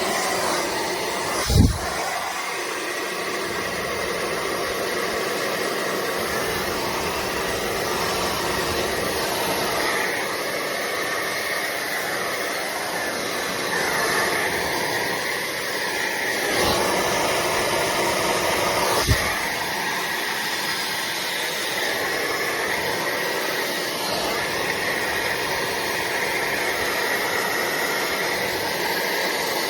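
Slopehill high-speed hair dryer running steadily: a loud rush of air with a faint steady whine inside it. A few short low thumps come through, about two seconds in and again near the middle.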